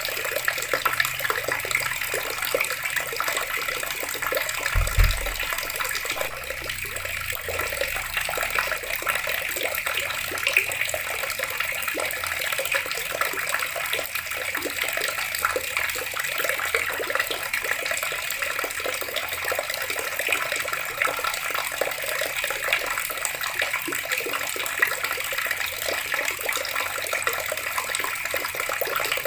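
Water running from a tap and splashing steadily, a continuous crackling rush. A single low thump about five seconds in.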